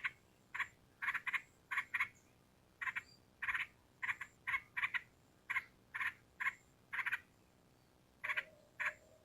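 Yellow-vented bulbul (trucukan) calling: short, sharp chattering notes, given singly and in quick pairs or triples with brief pauses between, about two a second.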